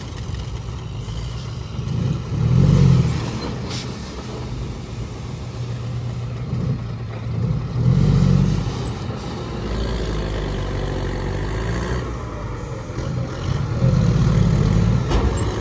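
Heavy diesel earthmoving machinery running, its engine surging under load three times, about every five to six seconds, with a sharp click about four seconds in and a knock at the very end.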